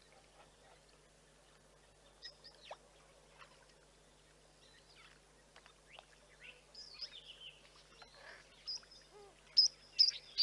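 Wild birds chirping: scattered short, high chirps over a faint steady background, growing louder and more frequent near the end.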